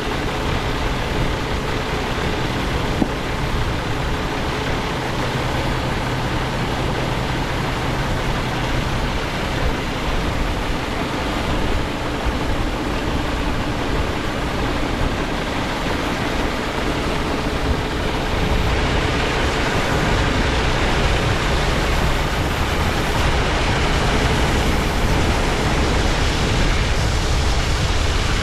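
Heavy farm machinery running steadily, a low rumble under a broad rushing noise, growing a little louder about two-thirds of the way in.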